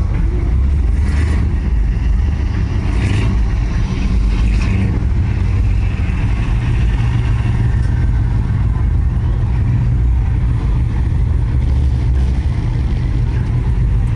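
Lowrider cars driving past in slow traffic, a steady low engine rumble.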